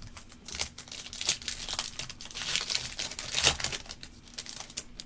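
Foil wrapper of a trading card pack crinkling and tearing as it is opened, a run of irregular crackles that is loudest about three and a half seconds in.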